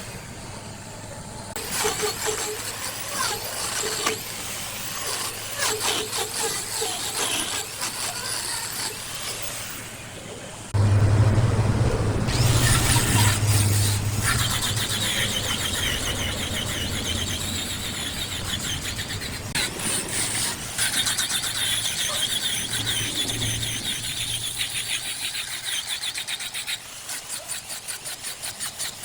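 Wood lathe turning a block, with a cutting tool scraping and squealing against the spinning wood. A louder low motor hum cuts in about a third of the way through.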